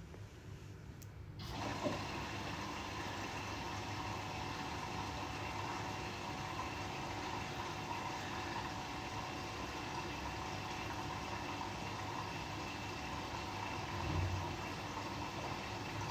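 Front-loading washing machine taking in water at the start of a quick wash: a steady rush of water through the inlet, beginning about a second and a half in, with a brief low thump near the end.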